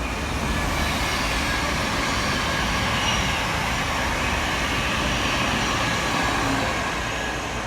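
A train passing on the line: steady rumble and rush of wheels on rails with faint high tones over it, easing off a little near the end.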